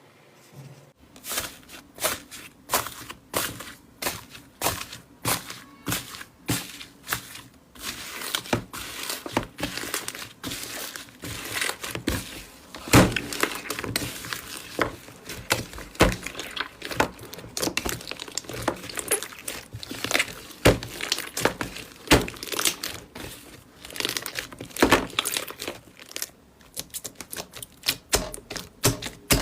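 Slime being squished and pressed by hand, giving a quick, uneven run of sticky pops, clicks and crackles, several a second.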